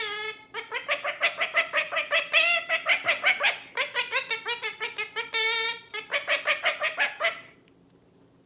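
A bird calling in rapid runs of short pitched notes, about five or six a second, with brief breaks between runs, stopping about seven and a half seconds in.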